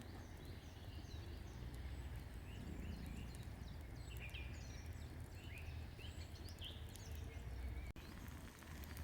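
Small birds singing, many short chirps and whistled notes, over a steady low rumble.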